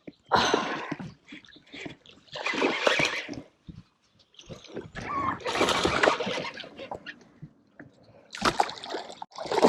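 A hooked bass splashing at the water's surface in a few separate bursts as it thrashes on the line in shallow water.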